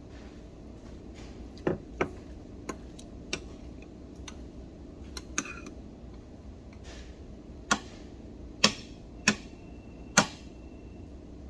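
Utensils clinking against plates and bowls while eating: about nine sharp, separate clinks at uneven intervals over a low steady room hum.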